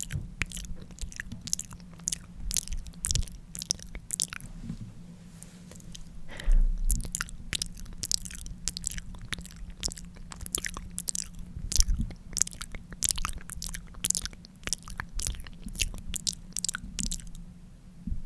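Close-miked wet mouth sounds of lips being licked: an irregular run of soft smacks and sticky clicks, several a second, with a brief pause about five seconds in.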